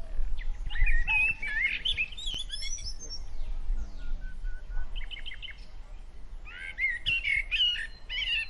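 Small birds chirping and warbling in quick, twisting phrases, in two busy spells with a short run of rapid repeated notes between them.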